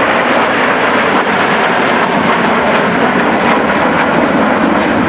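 Loud, steady engine noise of a fixed-wing aircraft.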